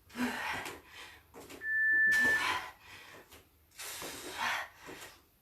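A woman breathing hard from exertion, with three or four hissing exhales a second or two apart. A short steady beep sounds about two seconds in.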